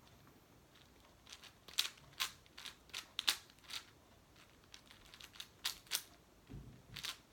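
Plastic speed cube being turned by hand: a run of sharp, irregular clacks as the layers snap round, a few a second, with a dull thud near the end.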